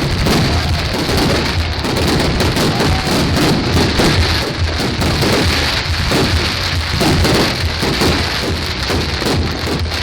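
Fireworks crackling densely, countless small pops running together into a continuous loud crackle.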